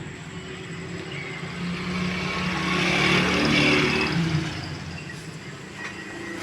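A road vehicle passing, growing louder to a peak about three and a half seconds in and then fading.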